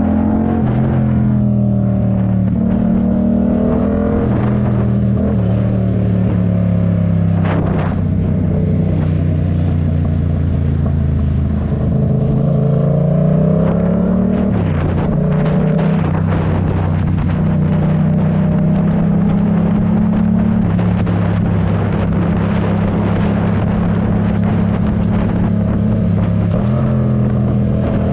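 Yamaha MT-07 parallel-twin engine under way, holding steady revs with a few step changes in pitch. About halfway through the revs rise, then drop at a gear change.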